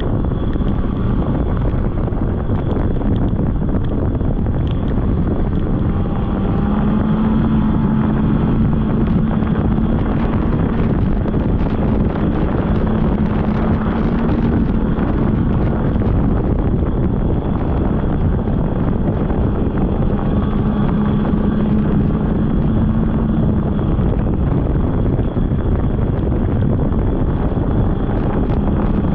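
Polaris snowmobile engine running along a trail under heavy wind noise on the microphone; its pitch climbs and holds for several seconds about six seconds in and again past the twenty-second mark as the throttle opens.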